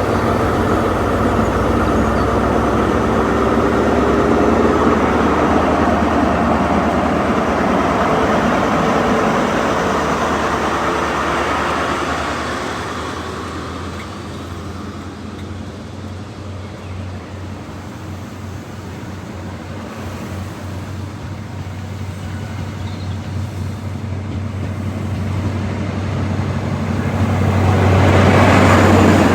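Class 43 HST power car's diesel engine working hard as the train pulls out of the station, fading away after about twelve seconds. Near the end a second rising swell of train noise builds to the loudest point.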